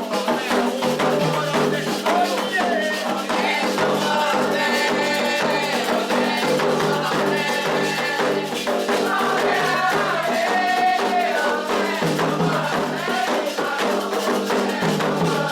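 Candomblé toque for Oxossi and Ossaim: ritual percussion with rattling strokes played steadily under voices singing.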